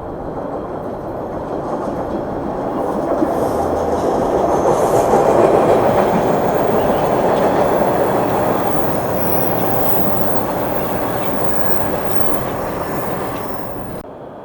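A train passing on the rails, growing louder to a peak about five seconds in and then easing off, with the sound cutting off abruptly near the end.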